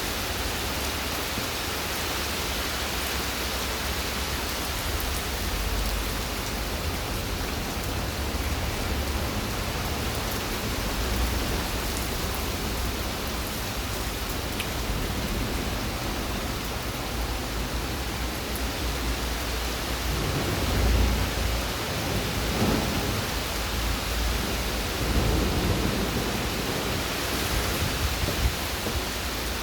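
Steady rain falling, an even hiss. Low rumbling swells come in about two-thirds of the way through, twice.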